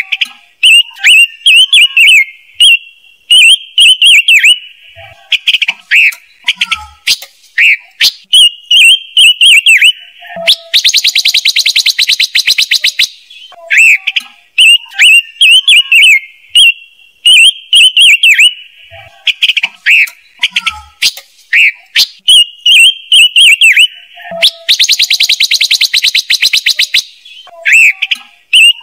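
Loud recorded calls of the songbird trappers call 'chim ngũ sắc', played as a lure: runs of quick chirping notes, twice broken by a rapid, dry rattling call lasting about two seconds. The same sequence repeats as a loop.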